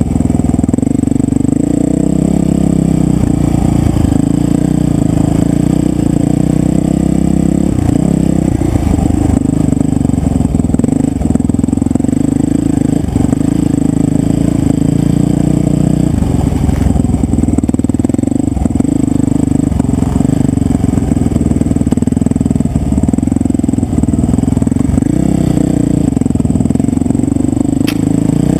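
Dirt bike engine running loud and steady under way, its note rising and falling a little with the throttle.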